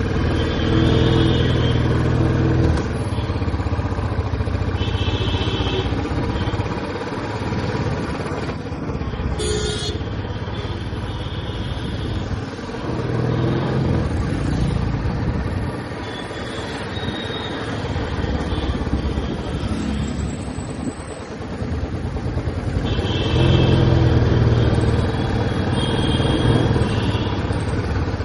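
Royal Enfield Classic 350's single-cylinder engine and exhaust running under way, rising and falling with the throttle, loudest in two spells of acceleration just after the start and about three-quarters of the way through. A brief sharp high-pitched sound comes about a third of the way in.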